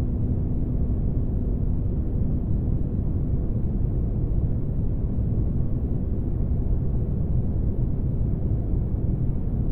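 Spaceship-interior ambience: a steady, deep rumbling noise with a faint constant hum, with no changes or events.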